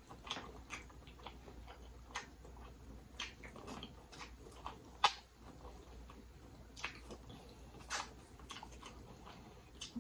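A person chewing a mouthful of lobster tail with the mouth closed: irregular soft wet smacks and clicks, a few seconds apart, the sharpest about five seconds in.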